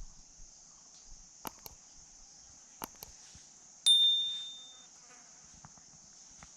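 Steady high-pitched insect chirring from the surrounding forest, with a few faint clicks. About four seconds in comes a single sharp metallic ding that rings briefly and fades.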